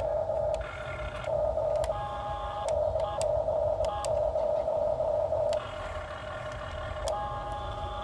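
Excavator working under heavy load: a steady high whine that shifts pitch and breaks off and resumes every second or so, over a low rumble, with scattered clicks.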